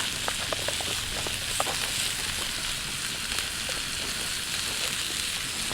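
Lamb sausage frying in a hot pan, just laid in: a steady sizzle with scattered small pops and crackles.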